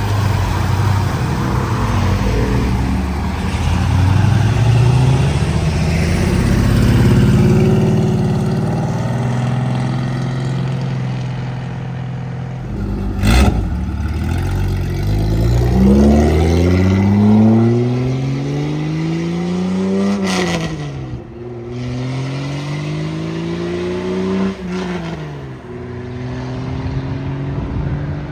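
Cars pulling away one after another, their engines accelerating hard. One car climbs up through the gears, its engine note rising and dropping back at two upshifts in the second half. There is a single sharp crack about 13 seconds in.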